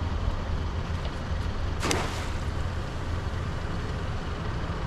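Steady low rumble of the boat's idling motor, with one short splash about two seconds in as the crab trap hits the water.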